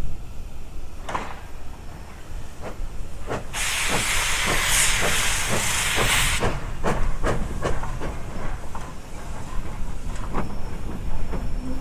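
Class L steam locomotive working past: sharp exhaust chuffs over a low rumble, coming faster, about three a second, in the second half. A loud hiss of released steam cuts in about three and a half seconds in and stops sharply some three seconds later.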